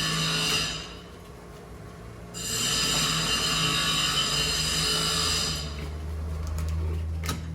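Power tool running with a high, steady whine, in two spells of about three seconds with a pause between, over a low steady hum. A sharp click comes near the end.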